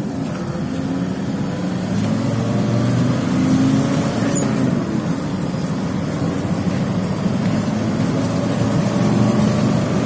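Mercedes-Benz Sprinter 312 D van with its diesel engine pulling hard at high road speed: a steady engine drone under tyre and wind noise.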